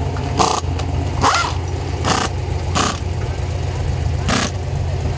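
Trophy truck engine idling with a steady low rumble, broken by short sharp bursts of hissing noise, four or five in the space of five seconds.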